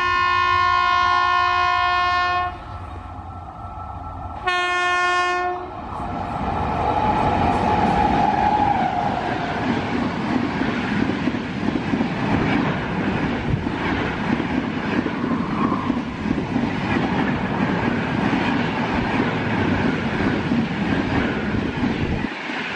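An Indian Railways WAP-7 electric locomotive's horn sounds twice: a long blast, then a shorter one about four seconds later. Then Rajdhani Express coaches pass at speed, a steady rush of wheels on rail with clickety-clack over the rail joints.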